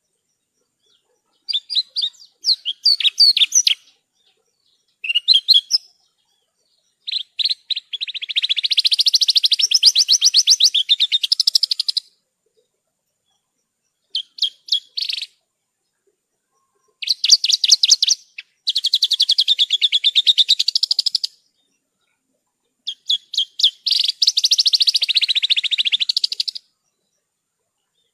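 Javan bush lark (branjangan) singing in repeated bursts of fast, high trilled phrases. Each burst lasts one to four seconds, with short pauses between them.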